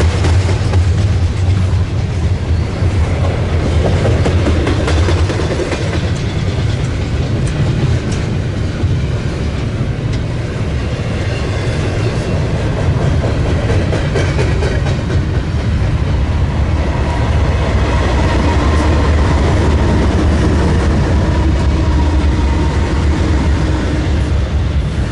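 Double-stack intermodal freight cars rolling past with a steady low rumble, their steel wheels clicking over the rail joints.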